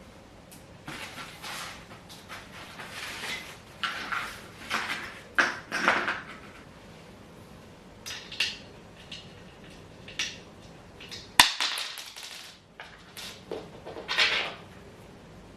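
Intermittent handling noises from assembling a dining chair: short scrapes and rustles of parts and packaging, with one sharp knock about eleven seconds in.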